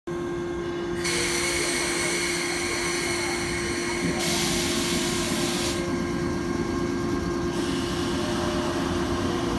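Freight train running past on the rails: continuous wheel-on-rail noise over a steady hum, with the hiss rising and falling every second or two.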